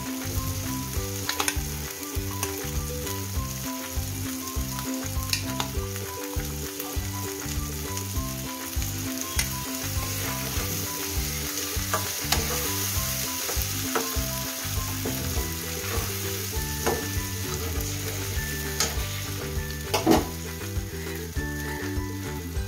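Onion-tomato masala sizzling in hot oil in a steel kadai as curd-marinated chicken pieces are tipped in and stirred, the metal spatula clicking and scraping against the pan, with one sharper knock near the end.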